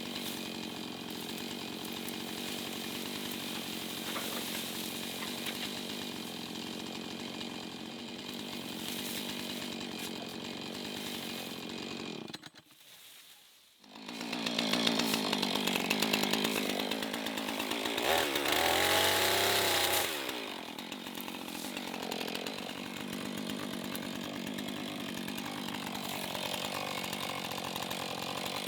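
Husqvarna two-stroke chainsaw running steadily, then, after a brief break about halfway, revving harder with its pitch rising and dipping as it cuts through wood under load.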